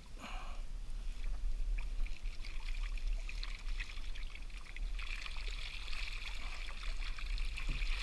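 Water trickling and splashing off a cast net as it is drawn out of the water, with many small patters that grow denser about five seconds in, over a low steady rumble.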